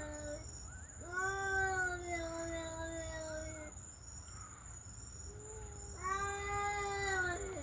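A kitten giving long, drawn-out wailing meows that sound oddly like a little kid: the tail of one call at the start, a long call from about one second in, a short one after a pause, and another long call near the end. Crickets chirp steadily behind.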